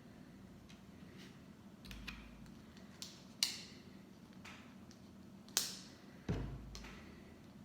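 Small plastic Lego pieces being handled: scattered light clicks and taps, with a few sharper clicks in the middle and later, the last with a dull thud.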